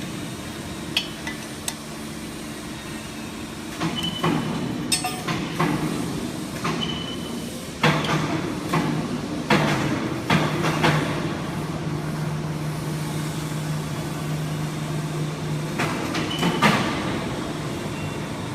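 Industrial machinery running with a steady hum, broken by irregular metallic clanks and knocks.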